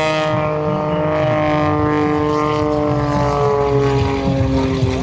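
Propeller and six-cylinder piston engine of a CAP 232 aerobatic plane running at steady power, its pitch slowly falling throughout as it passes the crowd and pulls away.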